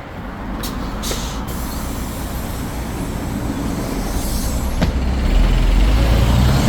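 Hyundai New Super Aerocity city bus's CNG six-cylinder engine running, with a short hiss of compressed air about a second in. The engine's low rumble grows louder over the last second and a half.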